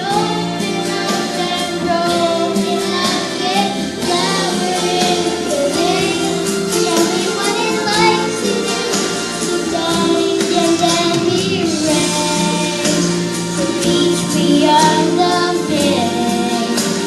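A female voice singing a Christian worship song over an instrumental backing track.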